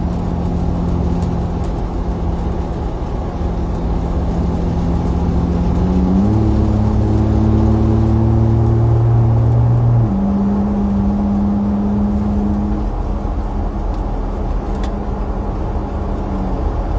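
Car engine and road noise heard from inside a moving car: a steady low rumble with a hum whose pitch steps up about six seconds in and drops back about ten seconds in, as the engine speed changes.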